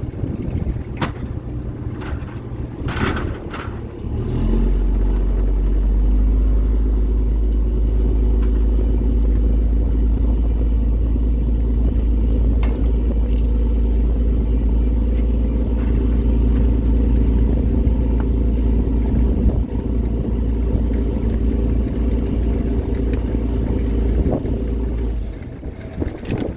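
Fishing boat's engine running with a steady low rumble; about four seconds in it comes up to a heavier, louder drone that holds steady, then eases off near the end. A few short knocks sound over it at the start.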